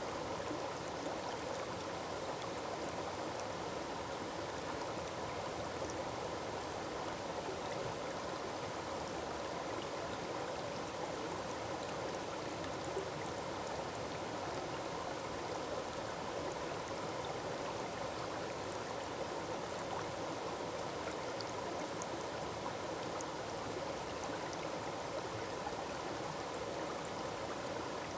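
Forest waterfall splashing and rushing steadily, with no let-up.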